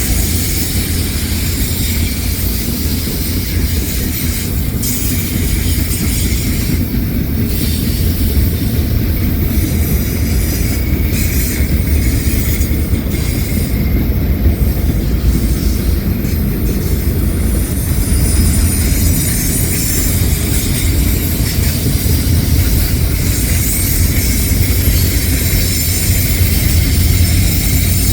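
Freight train rolling past on the mainline: a steady, loud low rumble of wheels and cars on the rails.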